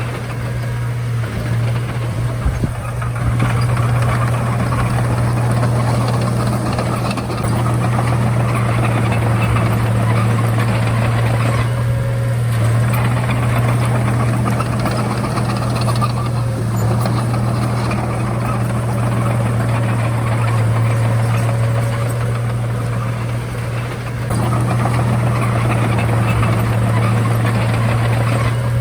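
Komatsu D31A bulldozer's diesel engine running steadily under work, a constant low drone that eases off briefly twice before picking up again.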